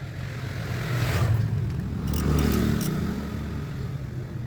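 A motor vehicle engine running, swelling louder about a second in and again around two and a half seconds, then easing off.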